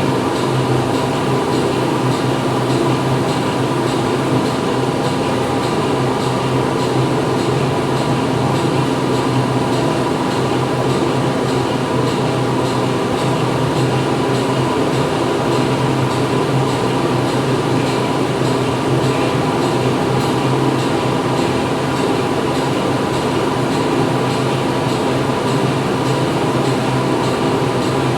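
Steady din of factory machinery running continuously: a constant low hum with several steady tones over a loud broad mechanical noise, with no breaks or changes.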